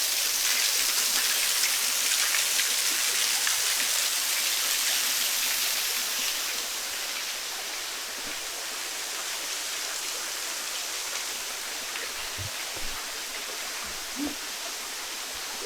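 Waterfall water rushing in a steady hiss, a little softer after about six seconds.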